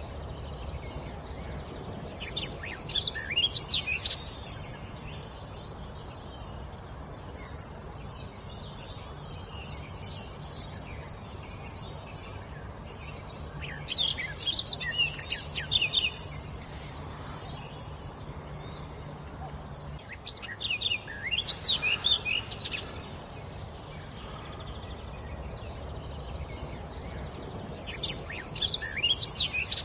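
A songbird sings four short phrases of quick, sweeping high notes, each about two seconds long and several seconds apart, over a steady low background hum.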